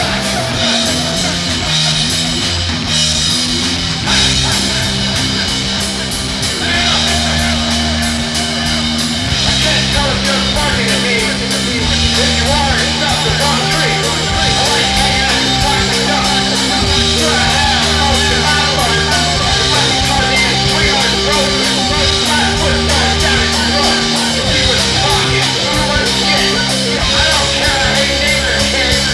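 Rock music with guitar and drum kit, a steady beat under low chords that change every two or three seconds.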